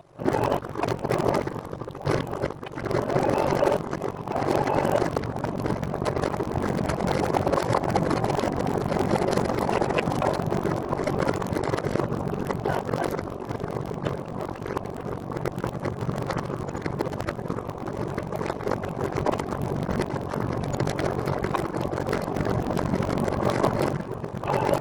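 Steady rush of wind on the microphone with rolling road noise from a recumbent trike under way, sputtering and crackling unevenly.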